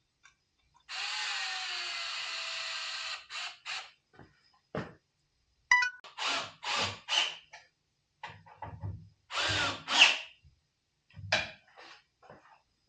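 Cordless drill running: one steady run of about two seconds, then a series of short trigger bursts.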